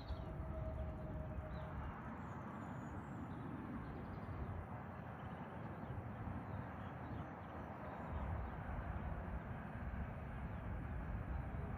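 Steady rumble of a jet airliner's engines, with a steady whine that fades about two seconds in. Birds chirp faintly early on.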